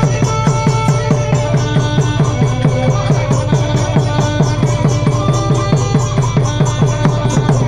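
Nora ensemble music from southern Thailand: a quick, even drum beat of about six strokes a second, with held melodic notes over it.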